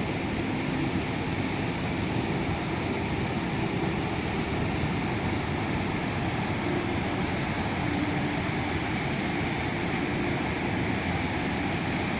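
Steady rush of water pouring over the falls of the Snake River.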